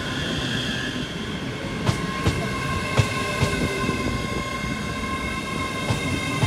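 ScotRail Class 385 electric multiple unit passing at close range, with a steady high whine and a few sharp clicks of wheels over rail joints.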